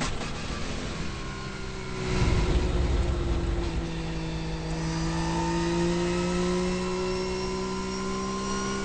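Turbocharged 20B three-rotor Wankel engine of a Mazda RX-7 race car, heard from inside the car, running at moderate revs. Its pitch climbs slowly and then holds steady, and it gets louder about two seconds in.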